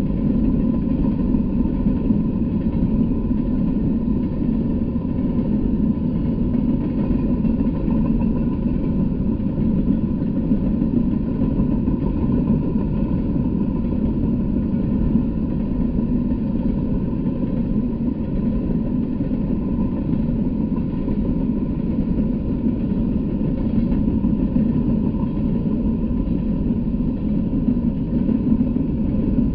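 Freight train of open-top hopper cars rolling past at a steady speed: a continuous low rumble of steel wheels on the rails.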